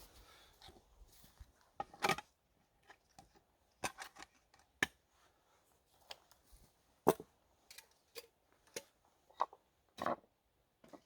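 Irregular sharp clicks and knocks of things being handled, a dozen or so with quiet between, the loudest about two, seven and ten seconds in.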